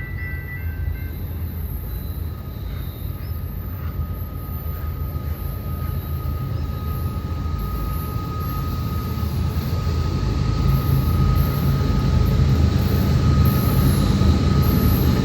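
A train's rumble, growing steadily louder as it approaches, with a steady high whine joining it about four seconds in.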